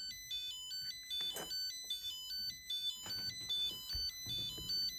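Nickel-strip spot welder's buzzer beeping over and over: short tones at several pitches, several a second, in a repeating pattern. The owner suspects it is an error state because the cell is at 2.7 V and wants charging. Faint handling noise sounds under it.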